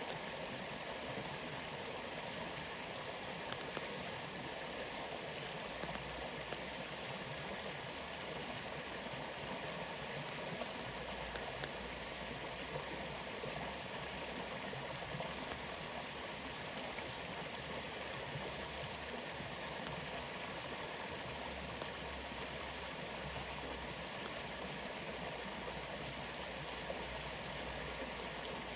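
Steady rush of a rainforest waterfall, with rain falling and a few faint drop ticks.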